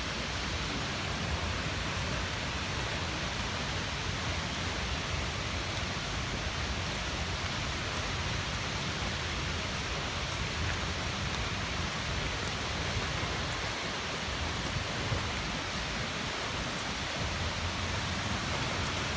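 Seljalandsfoss waterfall: a steady, even rush of falling water, with faint scattered ticks high in pitch.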